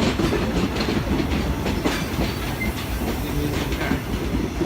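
Train running along the rails with a steady rumble and irregular clacks of its wheels over the track.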